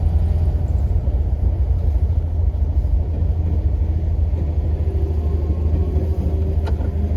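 Air-cooled Volkswagen flat-four engine running on the move, heard as a steady low rumble. A faint engine tone comes up in the second half, and there is a single sharp click near the end.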